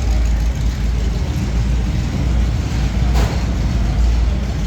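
A car engine running with a steady low rumble, and a short hiss about three seconds in.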